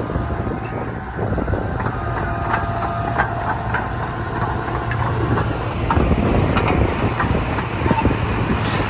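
Heavy diesel earthmoving machinery running steadily, with frequent short metallic clanks and rattles.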